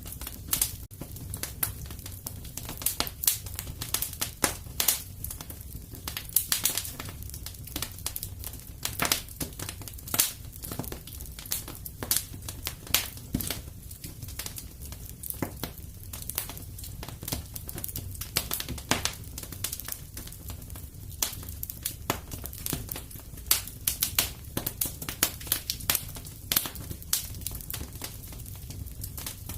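Wood fire burning in a fireplace: irregular sharp crackles and pops, several a second and bunched in places, over a steady low rumble.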